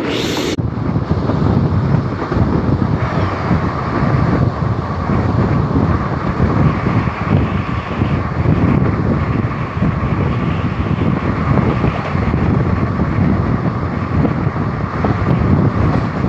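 Two trains passing at speed: the coaches of an express on the adjacent track rush by the open doorway of the moving train, over its own wheel-and-rail rumble and wind on the microphone. A brief sharp hiss comes right at the start.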